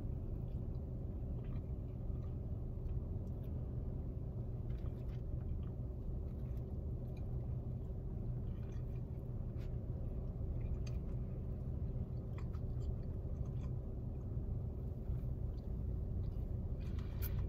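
A person biting into and chewing a mouthful of McRib sandwich (soft bun, pork patty, onion and pickle), with faint wet mouth clicks. A steady low hum runs underneath.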